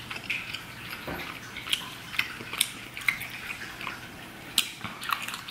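Close-up chewing of boiled octopus tentacle: scattered short wet clicks and smacks from the mouth.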